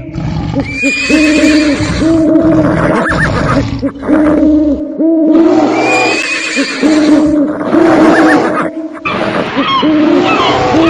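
Horse neighs and whinnies from many horses, overlapping and repeating continuously as a stampede sound effect. There are brief breaks about halfway and near the end, and higher calls come in over the last couple of seconds.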